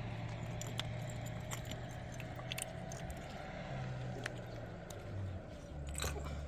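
A steady low hum from a running motor, dropping to a lower pitch about six seconds in, with light metallic clinking and jingling scattered over it.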